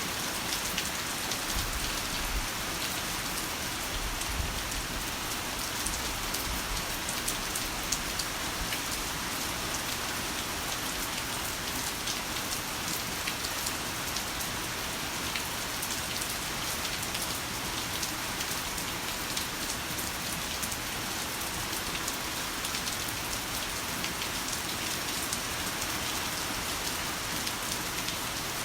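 Heavy rain falling steadily, a dense patter of drops hitting a surface, with a faint low rumble in the first several seconds.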